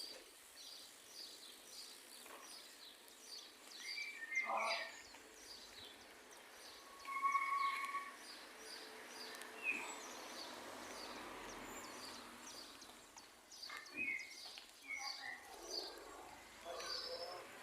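Small birds chirping over and over against a quiet outdoor background, with a few brief louder sounds about four seconds in, around eight seconds, and about fourteen seconds in.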